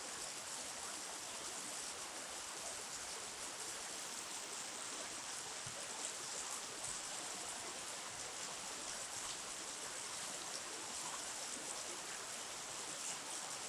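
Steady rush of flowing river water, an even hiss with faint ticks and splashes.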